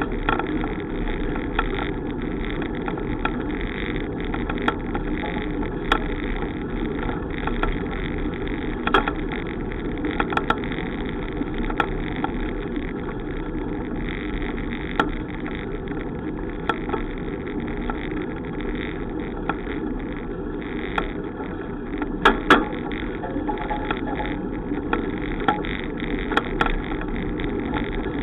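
Steady rumble and wind noise of a bicycle ride, with scattered light clicks and knocks and a louder double knock late on.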